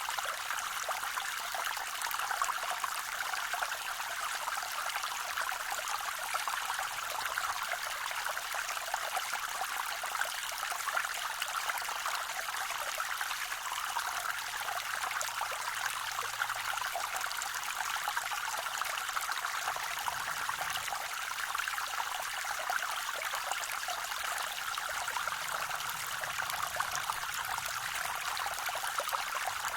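Small waterfall on a forest creek, water splashing and trickling steadily in a fine, hissing wash with little low rumble.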